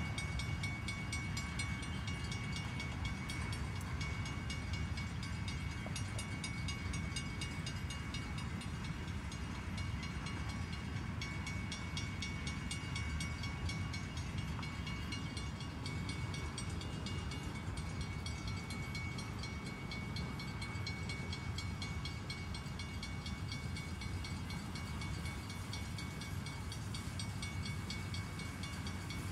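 Freight train of covered hopper cars rolling past, a steady low rumble.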